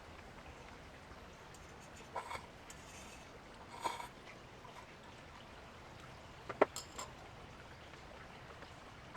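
Wood campfire burning: a few sharp crackles and pops over a faint steady hiss, the loudest pop about two-thirds of the way through.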